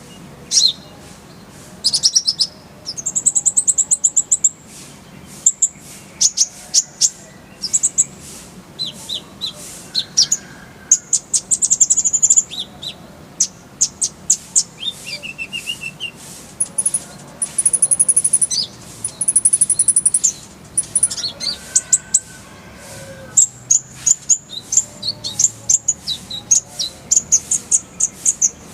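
Kolibri ninja sunbird singing a busy song of high, sharp chirps and fast trills, broken into short bursts with brief pauses, some stretches rattling off rapid repeated notes.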